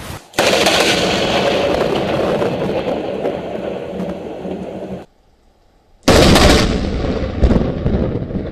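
Two thunderclaps from close lightning strikes. Each begins with a sudden sharp crack and rumbles on. The first comes just after the start and lasts about five seconds; the second comes about six seconds in.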